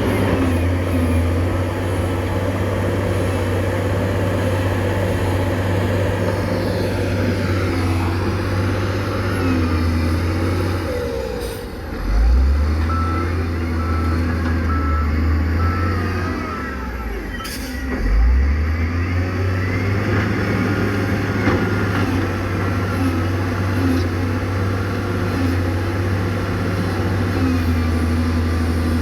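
Heavy diesel construction machinery running steadily, its engine revving up twice. A reversing alarm beeps repeatedly for a few seconds in the middle.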